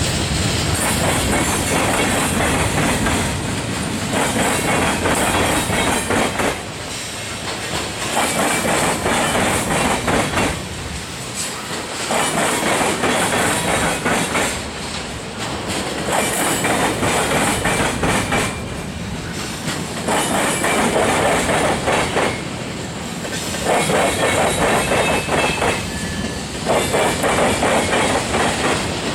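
Freight train cars rolling past, wheels clattering on the rails. The noise drops for about a second roughly every four seconds as car after car goes by, with a faint wheel squeal now and then.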